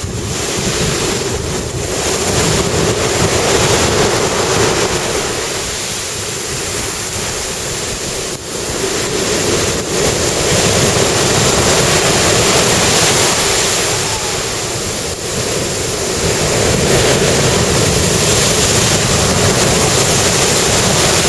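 Big surf breaking on a sandy beach, a continuous wash of waves that swells and eases every few seconds, with wind gusting on the microphone.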